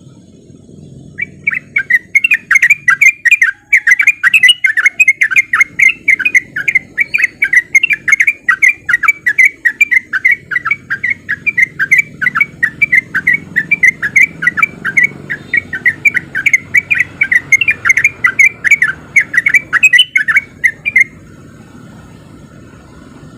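Yellow-vented bulbul (trucukan) singing a long, fast, unbroken run of chattering notes, about four a second. It starts about a second in and stops abruptly near the end.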